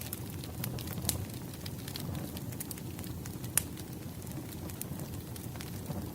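Wood fire burning, a steady low rush of flames with scattered sharp crackles and pops from the logs, one louder pop a little past halfway.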